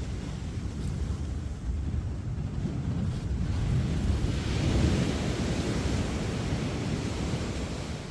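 Sea surf breaking and washing up the beach, with a low rumble under it; a wave's hiss swells up about halfway through.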